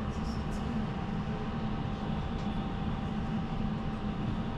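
Inside a moving Miyagi Kotsu route bus: a steady low rumble of engine and road noise, with a thin steady whine and a few faint high squeaks or rattles.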